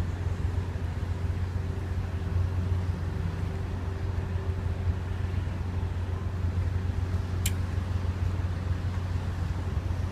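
Ship's engines running with a steady low drone and a constant hum over it. A single sharp click about seven and a half seconds in.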